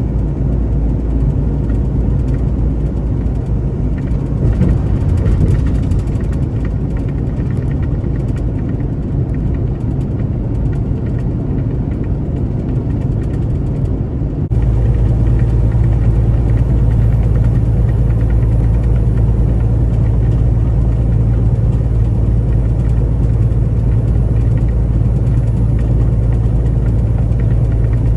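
Semi truck driving, a steady low engine and road rumble. Halfway through the rumble changes abruptly, turning slightly louder and steadier.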